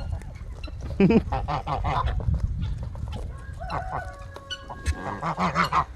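Domestic geese honking repeatedly, a run of short calls, the loudest about a second in.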